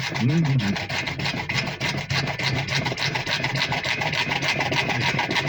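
Hand saw cutting through cold PVC water pipe with quick, even back-and-forth strokes.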